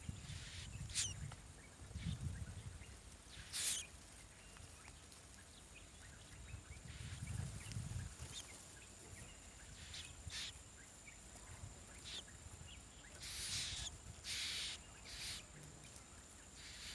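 A bird gives short, harsh rasping calls, about seven in all and spaced irregularly, with a longer one near the end. Under them are a low outdoor rumble and a steady thin high whine.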